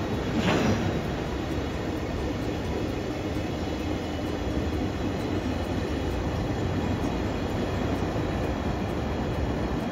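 A train running, a steady rushing rumble, with a short louder burst of noise about half a second in.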